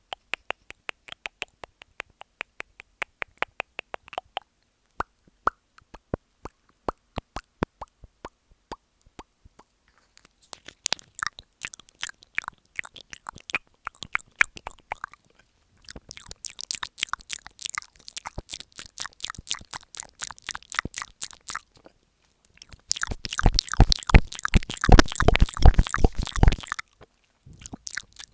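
ASMR mouth sounds close on an earphone microphone: separate wet mouth clicks and kissing smacks a few per second, growing into dense wet clicking, then a loud muffled stretch of the mouth pressing and rubbing on the microphone itself near the end.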